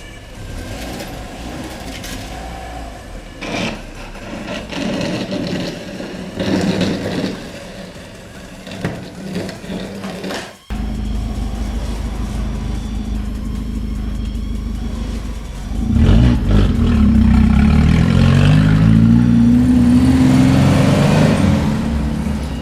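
Car engine running and being revved: a steady engine hum starts abruptly about halfway through, then grows louder with the pitch stepping up and down near the end.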